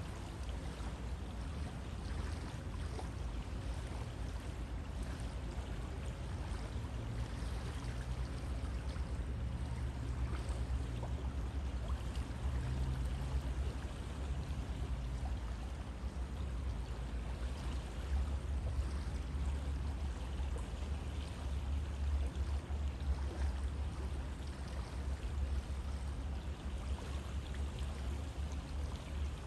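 River water flowing steadily: an even, continuous rushing noise with a low rumble underneath.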